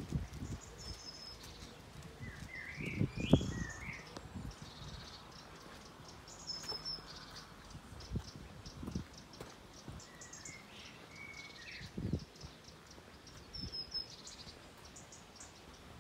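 Songbirds singing: repeated high chirps and short warbling phrases, with a few low thumps, the loudest about three seconds in.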